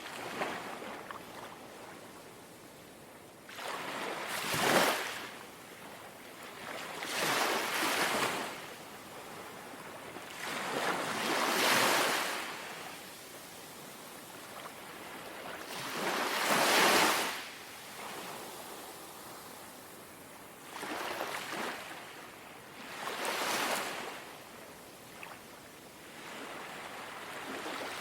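Small, gentle sea waves lapping on a shore. Each wash swells up and falls away again, one every three to five seconds, over a soft steady hiss.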